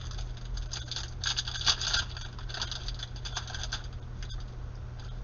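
Stack of glossy trading cards handled in the hand: a quick run of clicks and slides as the cards are flicked past one another, thinning out about four seconds in. A steady low hum runs underneath.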